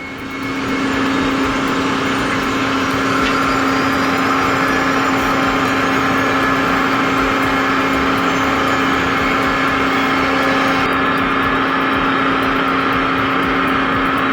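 Engine of a large crane running steadily, a constant drone with a steady hum.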